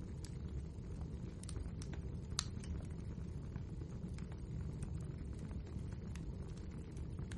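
Wood fire burning, a steady low rumble with scattered crackles and pops, the sharpest a little over two seconds in.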